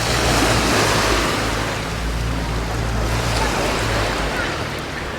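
Sea waves washing onto the beach, with wind rushing on the microphone, and a low steady hum underneath that stops about four seconds in.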